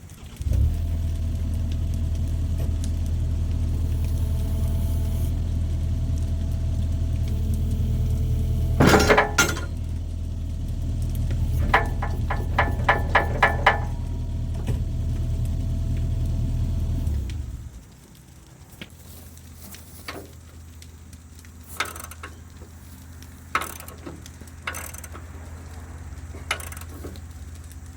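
John Deere 50P compact excavator's diesel engine starts about half a second in, runs at a steady idle, and shuts off abruptly near the end of the middle. While it runs there is a sharp knock, then a fast run of clicks for about two seconds. After shutdown, a faint low hum and scattered clicks remain.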